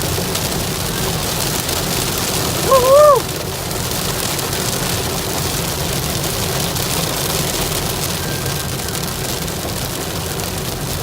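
Hail and heavy rain drumming steadily on a moving car, over the low rumble of the car on the road. About three seconds in, a short hoot-like tone rises and falls.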